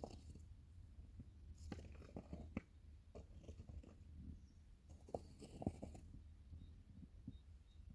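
Quiet handling sounds: scattered light clicks and knocks, with two short spells of scraping or rustling about two seconds in and again around five to six seconds in, over a low steady hum.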